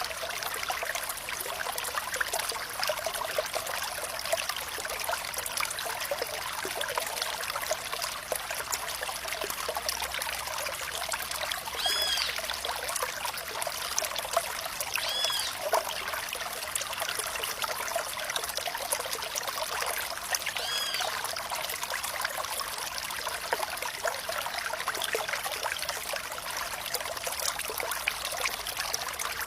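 Water trickling and flowing steadily, the dense babble of a small stream. Three short high chirps break through in the middle stretch.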